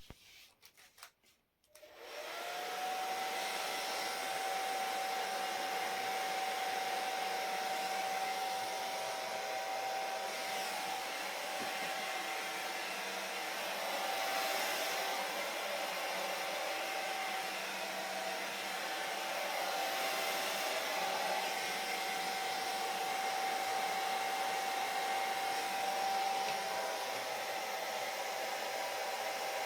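A hair dryer starts about two seconds in, after a few faint clicks. It then runs steadily: an even rush of air with a motor whine that rises briefly as it spins up, then holds one pitch.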